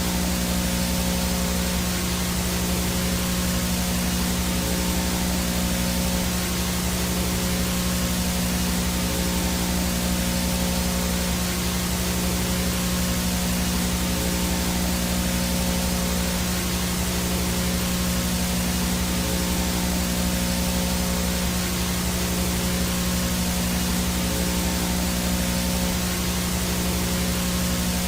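Analog VHS static: a steady hiss of noise with a low electrical hum and a thin high whine.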